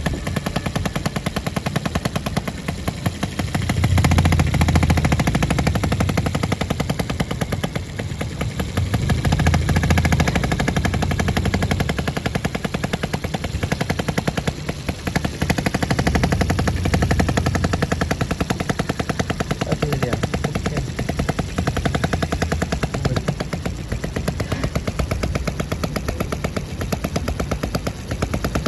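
Miniature model engine (RETROL OKMO 1110) running on its own with a rapid, even firing rhythm. Its low rumble swells and eases several times as the speed varies.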